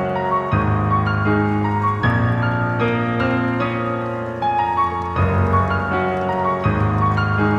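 Background piano music, with notes changing throughout over deep bass notes that shift every second or two.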